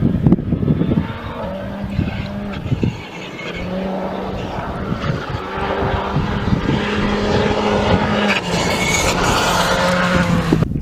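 Rally car engine running hard on a gravel special stage, its note holding high and stepping through gear changes a few times, over the hiss of tyres on gravel.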